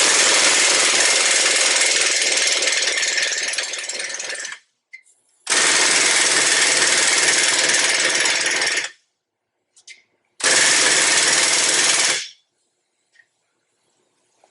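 Pneumatic impact wrench hammering in three bursts, the first about four and a half seconds long, then two shorter ones, each stopping sharply, as it drives bolts into the heavy tractor wheel hub.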